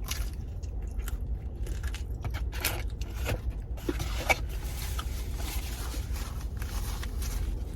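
Crunchy chewing and biting into a hard, overcooked, dry flatbread melt, a series of short crackles and clicks, over a steady low rumble.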